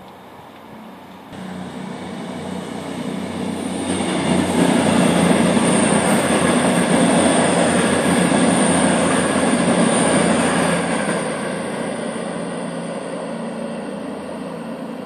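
CrossCountry Voyager diesel multiple unit passing at speed, its engines and wheels on the rails coming in suddenly about a second in, building to a peak and then fading as the train runs away.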